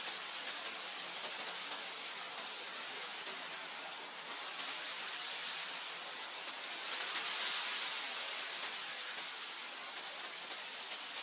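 Wind blowing over grassland: a steady hiss that swells into a stronger gust about seven seconds in, then eases back.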